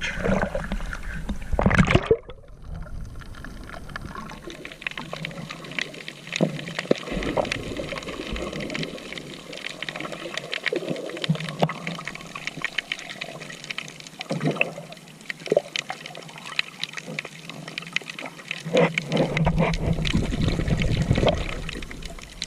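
Sea water sloshing and splashing close to the microphone, with a louder splash about two seconds in and scattered clicks and bubbling throughout.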